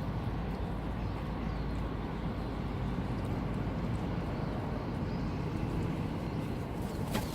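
Steady low outdoor rumble, with a single sharp click near the end.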